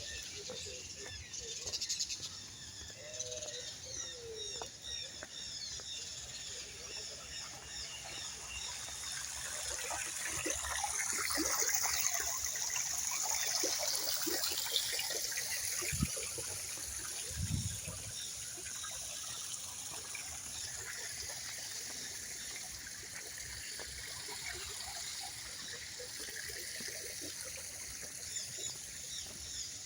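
Park ambience: many small birds chirping over a steady trickle of water, the water sound swelling for a few seconds in the middle. Two dull thumps about halfway through.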